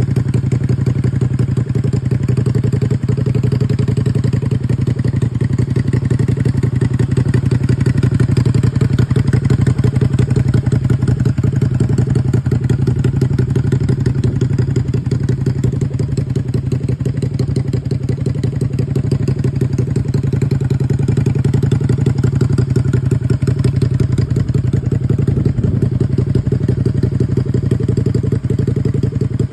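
Customised Honda V-Twin Magna 250's V-twin engine running steadily at idle through its muffler, a fast, even exhaust pulse.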